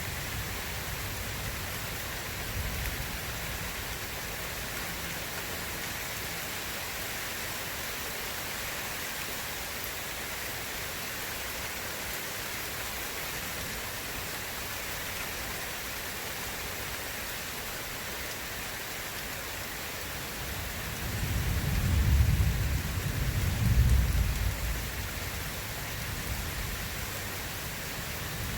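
Steady heavy rain with thunder: a low rolling rumble swells up near the end, peaking twice about two seconds apart before fading back under the rain.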